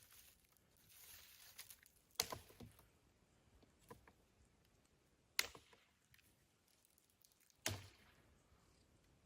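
Three sharp clicks or knocks, about three seconds apart, over near silence, with a soft rustle about a second in.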